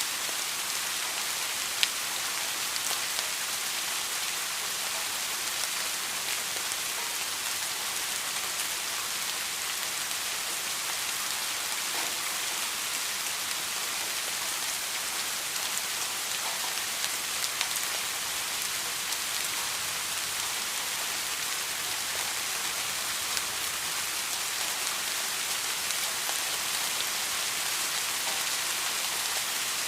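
Steady rain falling, an even hiss with scattered droplet ticks and one sharper tick about two seconds in.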